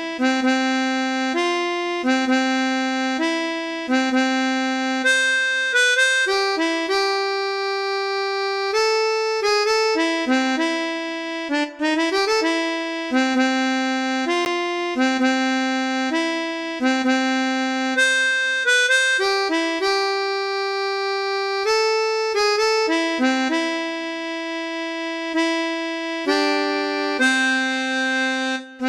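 Chromatic harmonica playing a slow melody in F in held notes, phrase by phrase, with a brief break a little before halfway.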